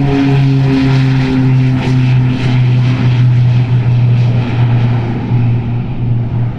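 A private turbine airplane's engines running: a loud, steady low drone with a hiss above it.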